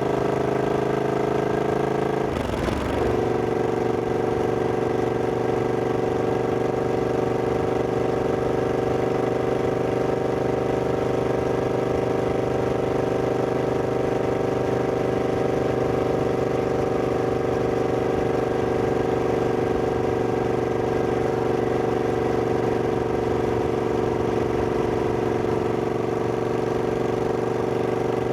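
Triumph Scrambler 1200X's 1200 cc parallel-twin engine running under way. Its note changes briefly about two and a half seconds in, then holds steady as the bike cruises.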